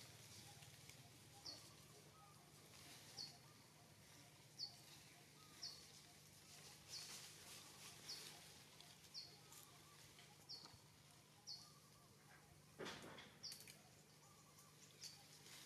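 A bird gives faint, short, high chirps, about one a second. A brief rustling noise comes near the end.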